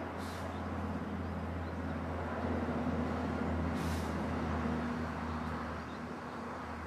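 A steady low engine-like hum that swells for a couple of seconds in the middle and then eases, with two short hisses, one near the start and one about four seconds in.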